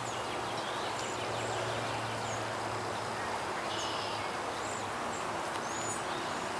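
Steady woodland background noise with small songbirds giving faint, scattered high chirps and a brief twittering trill, over a low steady hum.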